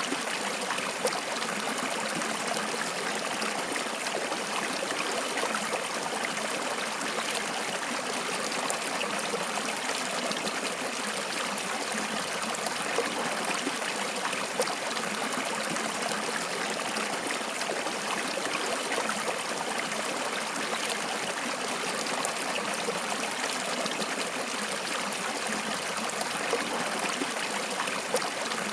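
Stream water flowing and trickling steadily, with small splashes here and there.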